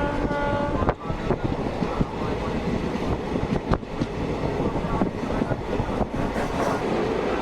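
Passenger coach of a locomotive-hauled Indian Railways local train running along the track, a steady rumble with irregular clicks and knocks from the wheels over rail joints. A short pitched sound comes in the first second.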